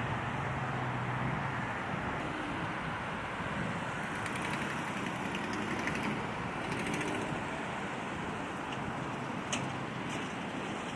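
Steady road traffic noise: a continuous rush of vehicles, with a low engine hum early on and a few faint clicks later.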